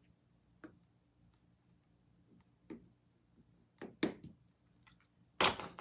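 A few light, sharp clicks and taps from hands handling craft materials, spaced irregularly, with one louder click near the end, over a faint steady hum.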